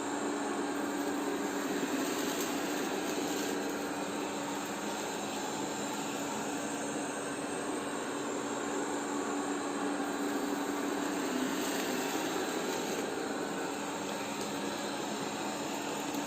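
Polaris PVCR 3200 IQ Home Aqua robot vacuum running steadily: an even whir of its suction fan and brushes with a constant low hum.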